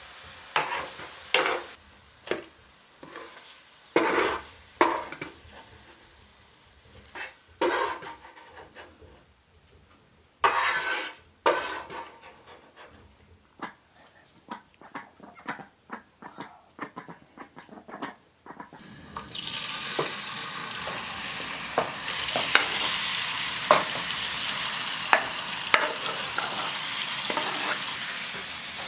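Kitchen clinks, knocks and scrapes of utensils and cookware at first. About two-thirds of the way in, food starts sizzling steadily in a frying pan, with the taps and scrapes of a utensil stirring it.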